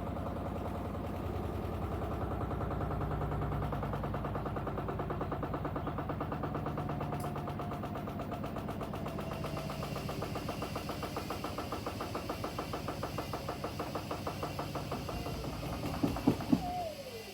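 Washing machines running with a fast, regular pulsing from the turning drum and motor. Near the end come a few sharp knocks and a short falling whine, and then the sound drops away to a low hum.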